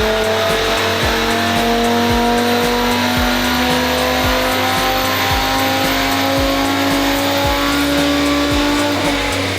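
Audi RS3 8Y's five-cylinder engine running under sustained load, its pitch rising slowly and steadily, with a hip-hop track playing underneath.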